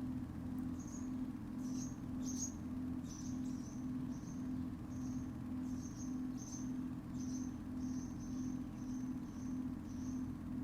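A small bird chirping over and over, short high chirps about two a second. Under it runs a steady low hum that pulses about three times a second.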